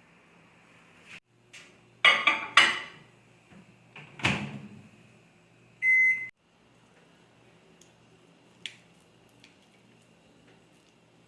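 Microwave oven: its running hum stops about a second in, followed by rattling knocks and a loud thump as the door and dish are handled. A single long beep sounds, then the oven starts running again with a steady hum.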